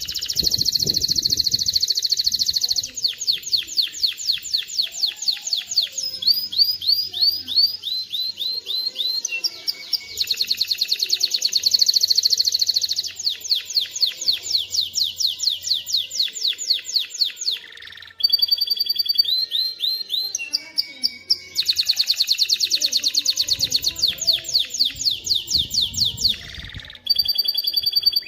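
Male domestic canary singing a long song of fast trills, with rapid runs of repeated notes that switch to a new phrase every second or two and pause briefly twice.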